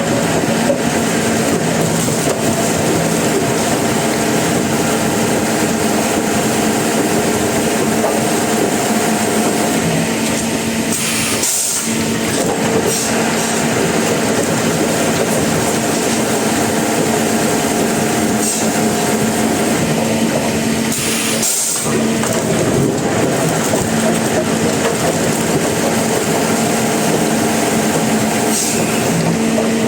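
Sawmill machinery running steadily with a constant mechanical hum, likely a saw cutting timber. The sound breaks off briefly twice, about a third and two-thirds of the way through.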